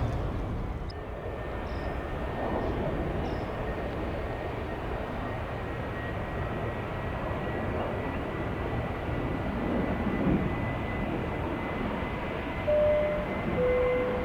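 Jet airliner engine noise: a steady rumble and hiss with a faint high whine running through it. Two short beeps sound near the end.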